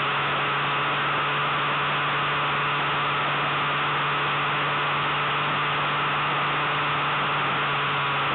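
Wind rushing over the microphone of a motorcycle cruising at steady speed, with the steady drone of the 2005 Suzuki Bandit 1200's inline-four engine held at constant revs underneath.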